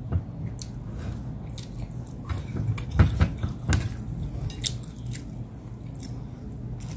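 Close-up wet chewing and biting of roast chicken, with irregular short smacks and clicks of the mouth.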